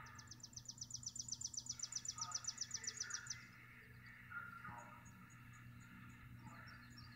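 Songbird trill: a rapid run of high notes, about ten a second, growing louder for about three seconds and then stopping, with a few faint bird chirps after it.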